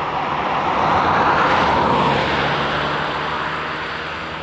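A road vehicle passing by: its tyre and engine noise swells to a peak about a second and a half in, then slowly fades.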